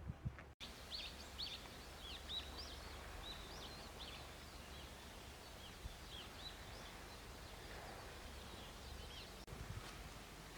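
Small birds chirping: a quick run of short, high calls soon after the start, then scattered calls, over a steady low background rush.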